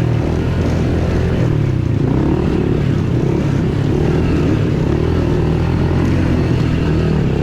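Dirt bike engine running, its revs rising and falling unevenly over a steady low drone.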